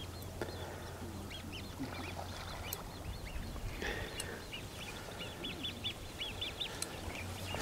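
Birds calling: a string of short, thin calls that come in quick runs in the second half, over a faint steady low hum.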